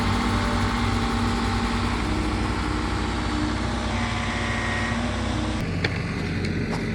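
An off-road 4x4's engine running steadily; the sound changes abruptly about five and a half seconds in.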